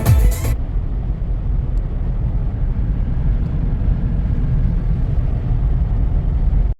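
Car driving, heard from inside the cabin: a steady low rumble of road and engine noise, with a short noisy rattle right at the start.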